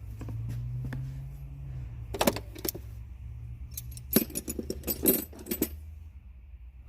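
Metallic jingling and clinking in two short bunches, like a set of keys or small metal tools being handled, over a low steady hum.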